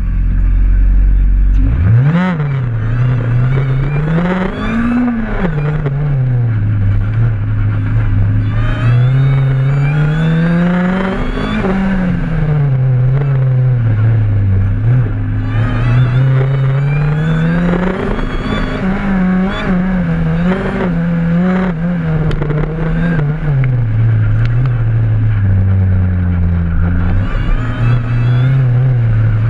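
Supercharged Mazda Miata's four-cylinder engine idling, then launching hard about two seconds in. It revs up and down over and over through an autocross course, its pitch rising with each burst of acceleration and dropping each time the driver lifts or brakes.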